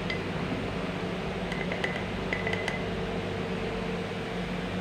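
Steady low electrical hum with room noise, and a few faint, light clinks in the middle, like a spoon touching a glass bowl.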